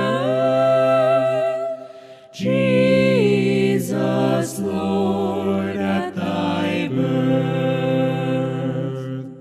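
Voices singing a hymn a cappella in harmony, long held notes with a brief break about two seconds in; the final chord fades out near the end.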